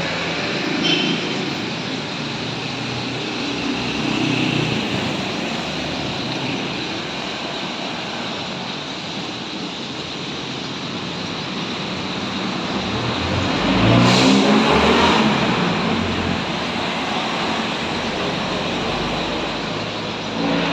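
Street traffic: a steady wash of road noise, with one vehicle passing close and loud about fourteen seconds in.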